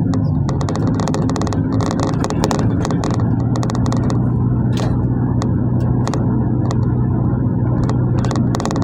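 Cabin noise inside a GAZ marshrutka minibus on the move: the engine drones, settling into a steady hum about three seconds in, with road noise and frequent clicking rattles from the body and fittings.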